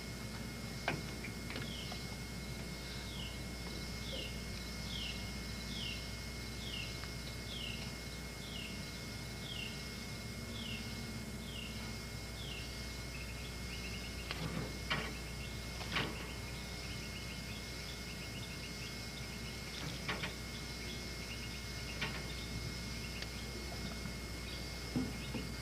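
A bird repeats a short descending note about once a second for some ten seconds, over the steady hiss and hum of a VHS camcorder recording. A few sharp clicks and knocks follow in the second half.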